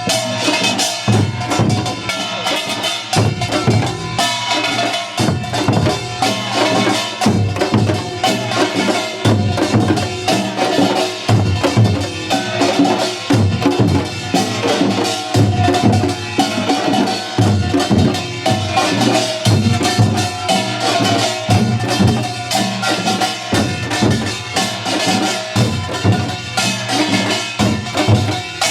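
Korean pungmul percussion ensemble playing together without pause: drums thump low and regularly under the ringing clatter of small metal gongs, in a dense continuous rhythm.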